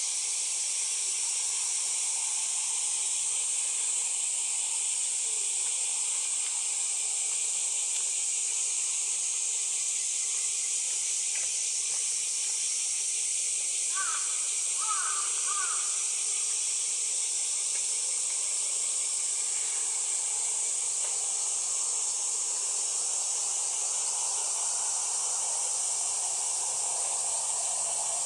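Steady high-pitched hiss, with a short run of three or four calls about fourteen seconds in.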